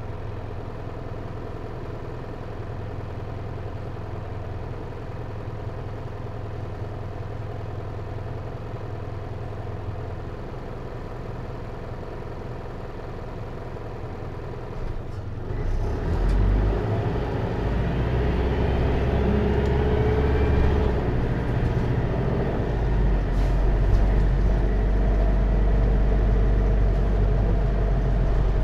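Hino Liesse microbus's J05C four-cylinder diesel engine, heard from inside the cabin. It runs steadily at low revs, then about halfway through there is a brief click and the engine grows louder and climbs in pitch as the bus pulls away and accelerates through its automatic gears.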